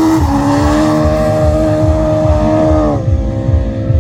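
Autograss racing car's engine running at high revs with a steady note. The pitch dips a quarter second in, sags slowly, then falls away sharply about three seconds in.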